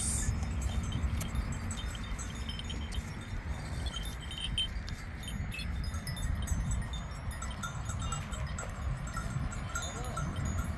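Wind rumbling on the microphone outdoors, with faint scattered high tinkling and ticking over it.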